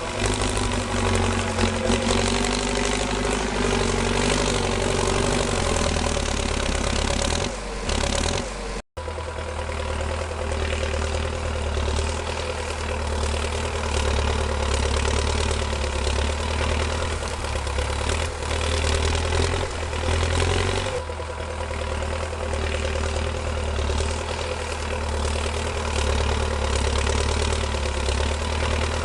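A small engine running steadily with a low hum, broken once by a brief cut about nine seconds in.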